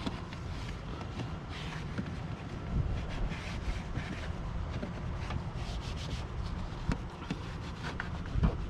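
Detail cleaning of a car engine bay: a brush or cloth rubbing and scrubbing over engine-bay surfaces in short, irregular strokes, with a few light clicks and a low rumble underneath.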